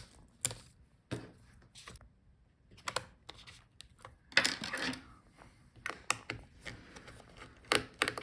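Irregular small clicks, taps and scrapes of a laptop's internal parts being handled, with a longer scraping rustle about halfway through: the battery connector of an opened Lenovo ThinkPad P1 Gen 5 being unplugged from the motherboard.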